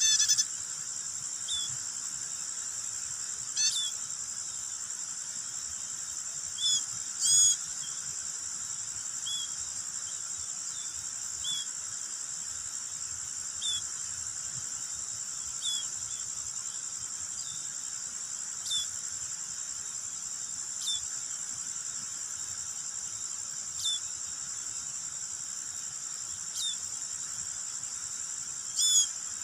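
A baby bird cheeps in short, high, downward chirps every couple of seconds, with louder little runs near the start, the middle and the end. Under it runs a steady high drone of insects.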